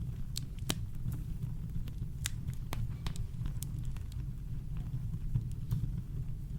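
Campfire crackling: irregular sharp pops and snaps, a few louder ones near the start, over a steady low rumble of brown noise.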